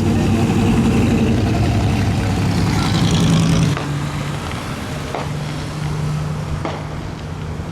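Car engines running at low speed. The louder engine sound drops away a little under four seconds in, leaving a steady lower engine hum and a few light clicks.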